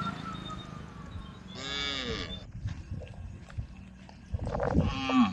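Cows mooing: two calls, a shorter one about a second and a half in and a longer one near the end that falls in pitch as it closes.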